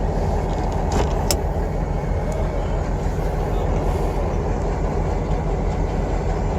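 Steady low rumble of a vehicle with wind noise in a sandstorm, with two short sharp clicks about a second in.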